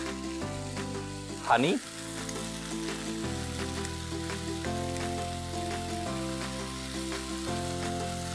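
Chicken strips, onion, tomato and bell pepper sizzling steadily in a non-stick frying pan as mustard paste and honey go in for the sauce, with a spoon stirring the pan near the end. Background music with slowly changing sustained chords plays alongside.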